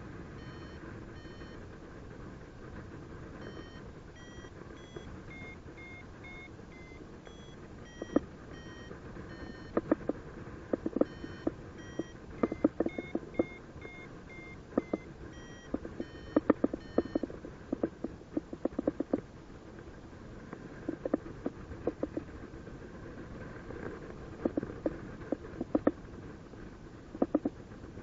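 Paragliding variometer giving short climb beeps that step up and down in pitch, the sign that the glider is rising, until they stop about two thirds of the way in. Steady wind noise runs underneath, and from a little after a quarter of the way in there are loud irregular crackles.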